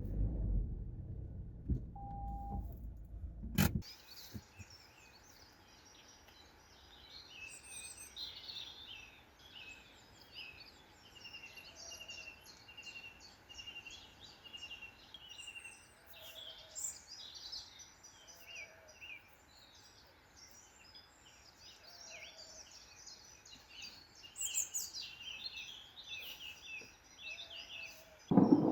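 A low rumble that cuts off suddenly about four seconds in, then several woodland songbirds singing and chirping faintly in the evening.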